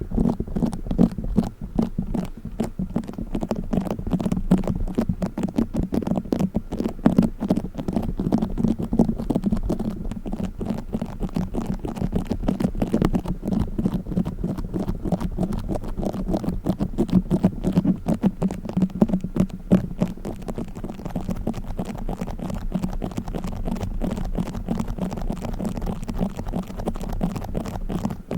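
Play foam being squeezed and kneaded: a dense, continuous crackling of many small clicks.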